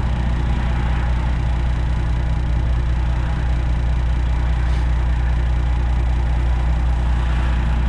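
Semi truck's diesel engine idling steadily, a low even hum heard inside the cab with the windows down.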